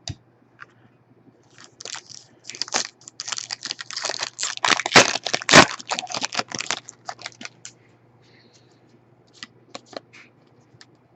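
A foil trading-card pack wrapper being torn open and crinkled: a dense run of crackles lasting several seconds, then a few scattered clicks as the cards are handled.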